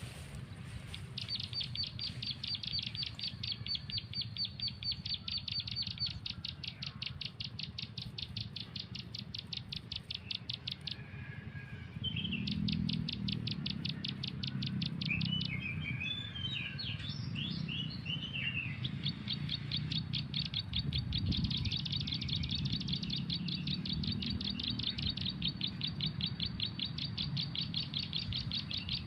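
High-pitched bird trill of rapid, evenly spaced notes, broken off twice, with a few seconds of varied twittering about halfway through, over a steady low rumble.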